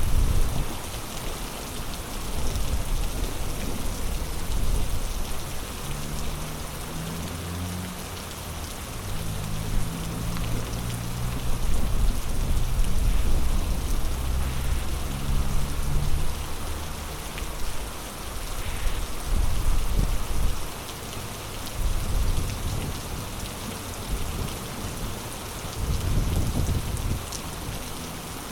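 Heavy rain pouring down in a steady hiss, with a low rumble underneath that swells and fades, strongest through the middle.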